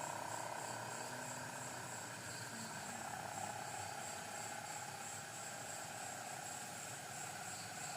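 Night insects chirping steadily, with an even pulse about three times a second, over a continuous wavering hum.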